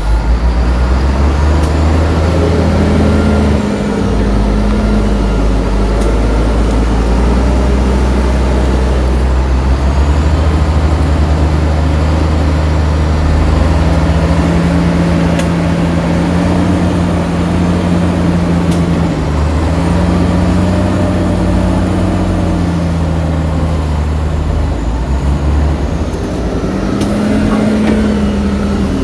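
Heavy diesel engine running loud under load, its pitch rising and dropping several times as the throttle is opened and eased off.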